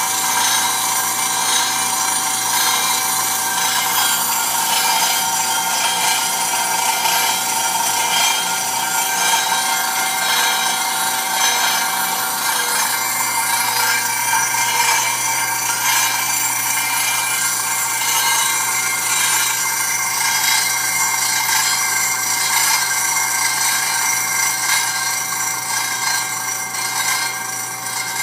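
Custom double-disk grinder rough-grinding a stone flatstone between its abrasive disks: a continuous rasping grind with a steady high whine in it.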